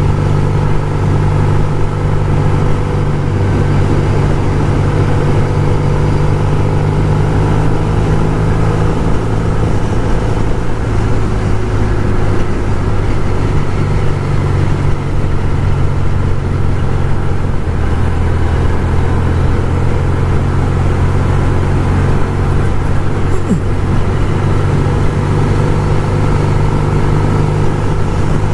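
1974 Norton 850 Commando's air-cooled parallel-twin engine running under way at steady cruising speed, heard from on the bike. The engine note shifts slightly about a third of the way in and again after the middle.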